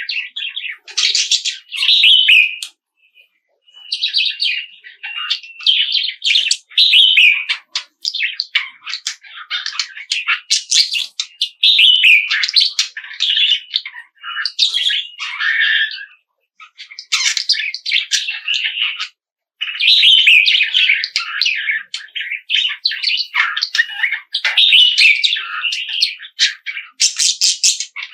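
Small songbirds chirping and twittering in quick, high-pitched runs of calls, several birds together, with a few brief pauses.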